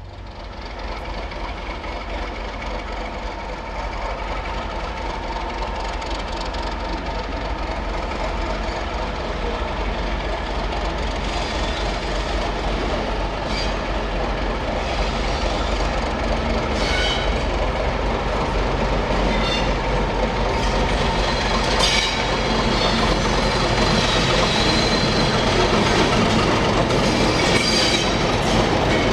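A train approaching on the track, growing steadily louder, with a few sharp wheel clicks over the rails in the second half.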